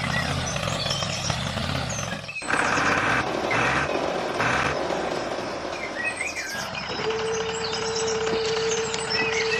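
Outdoor background with small birds chirping, over a low steady hum for the first two seconds and a held steady tone in the last few seconds.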